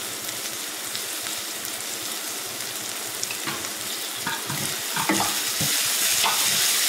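Onions and mint leaves sizzling in hot oil in an open stainless steel pressure cooker. In the second half a wooden spatula stirs them, scraping and knocking against the pot, and the frying gets a little louder.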